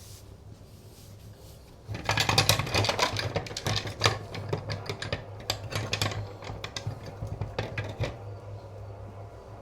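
Small metal parts clattering and clinking as they are handled: a dense run of rapid, irregular clicks and rattles starts about two seconds in and thins out near the end, over a steady low hum.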